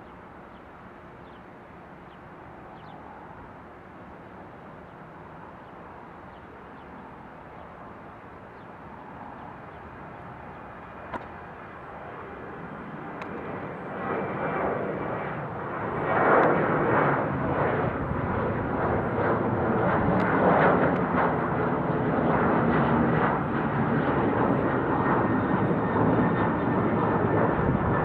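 Departing airliner's engines at takeoff power. The roar grows from faint to loud over the second half and stays loud as the plane passes.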